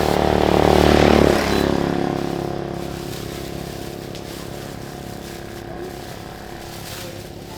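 Motorbike engine running close by, loudest about a second in and then slowly fading as it moves away.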